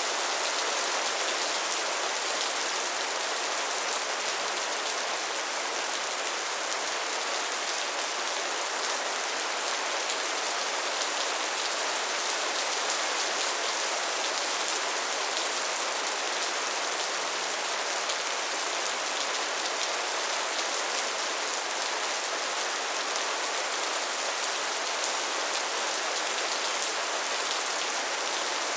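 Soft, steady rain falling, an even patter of raindrops with no change in strength.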